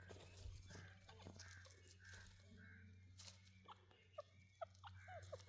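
Teetar partridges calling faintly: a run of soft, evenly spaced clucking notes, then quicker short chirping notes that grow busier near the end.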